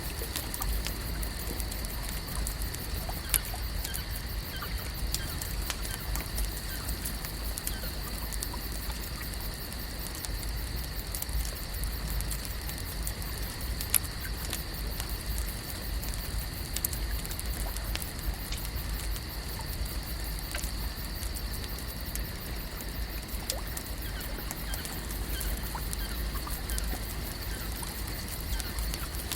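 Lake ambience: a continuous high-pitched drone and a low rumble under many light, scattered ticks and pattering.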